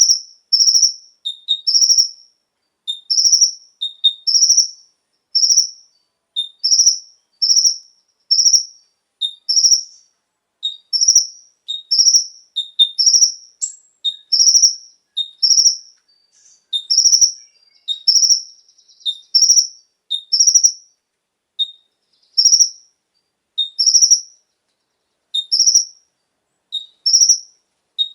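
Kolibri ninja (konin) sunbird singing: short, sharp, high-pitched chirps repeated about once a second. Each is a loud high note with a softer, lower note after it.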